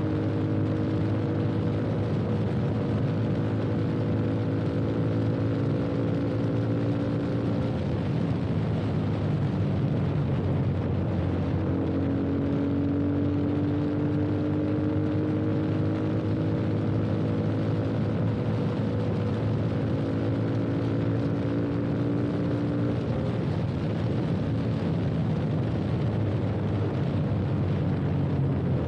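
Yamaha FZ25's single-cylinder engine running through an aftermarket slip-on exhaust while riding. The revs rise slowly, drop about eight seconds in, and then climb again until easing off after about 23 seconds, over steady wind and road noise.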